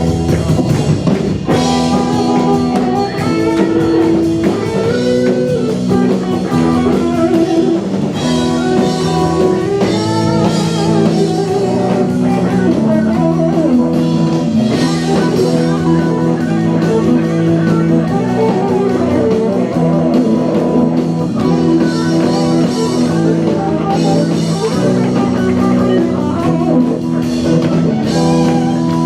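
Live band playing an instrumental rock passage: electric guitar chords and a drum kit, with no singing.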